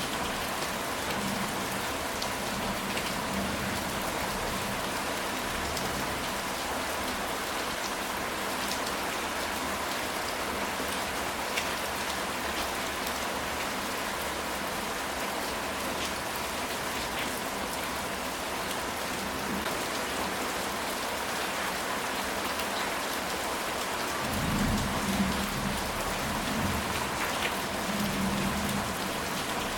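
Steady rain falling on a ceramic tile roof, with scattered sharper drops. A low rumble of thunder comes in near the end.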